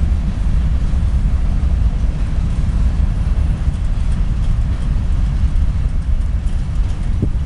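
Freight train of loaded covered hopper cars rolling past, a steady heavy rumble of steel wheels on the rails.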